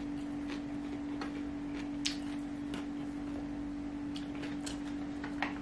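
Steady low hum with a few soft, scattered mouth clicks from chewing food.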